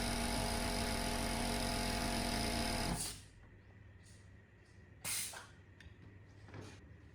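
Restored 2 HP, 30-litre air compressor running steadily with a steady hum, then stopping abruptly about three seconds in. About two seconds later comes a short, loud noisy burst, with a few fainter short sounds around it.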